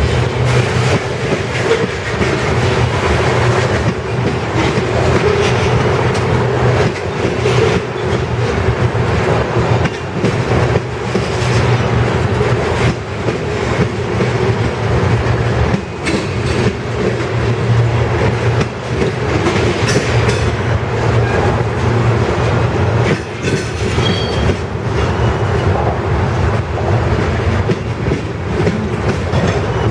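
Freight cars of a long mixed freight and ethanol train rolling past, with a steady loud rumble and a continuous irregular clatter of wheels over the rail. A brief faint high squeal sounds about two-thirds of the way through.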